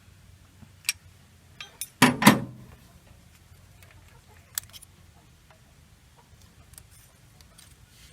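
Metal hand tools clicking and clanking on the valve gear of a Toyota 4K engine during valve clearance adjustment. There are a few light clicks and one loud double clank, about two seconds in, that rings briefly.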